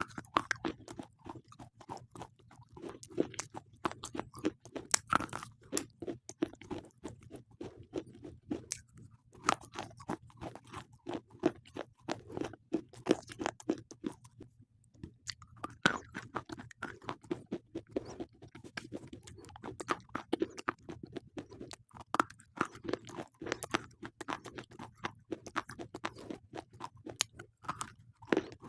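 Slate pencils being bitten and chewed close to the microphone: a dense run of sharp, gritty crunches, with two short pauses partway through.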